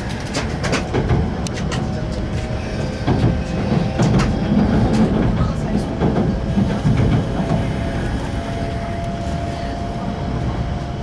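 Cabin noise inside an E5 series Shinkansen train on the move: a steady rumble, with a run of sharp clicks in the first couple of seconds and a steady whine coming up about eight seconds in.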